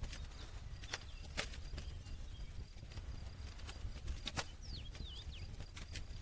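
Wood campfire crackling: sharp pops and snaps of burning wood, the loudest about a second in and past the middle, over a low steady rumble. A few short, high, falling chirps sound a little past the middle.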